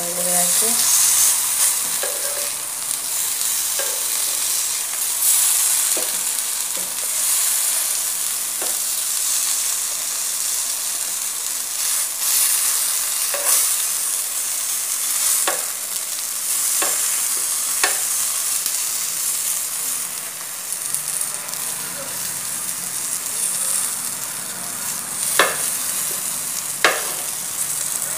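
Spiced vegetable slices sizzling in oil on a flat tawa, with a metal spatula scraping and clacking against the pan now and then as the slices are turned.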